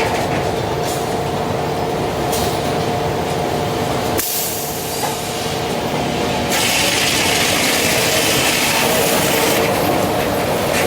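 Brewer sharp chain scragg sawmill running: a steady machine hum with a dense mechanical clatter, and a louder high hiss for about three seconds past the middle.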